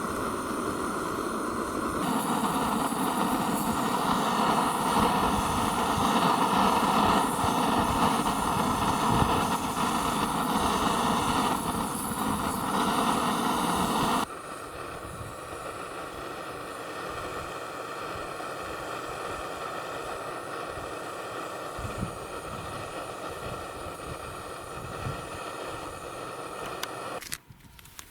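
Steady engine hum, louder in the first half and dropping abruptly to a quieter steady hum about fourteen seconds in.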